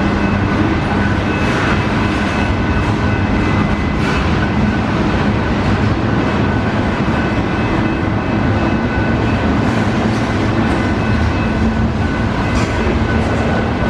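Union Pacific mixed freight train's cars rolling past on the rails: a loud, steady rumble and rattle of wheels on track, with faint high ringing tones running through it.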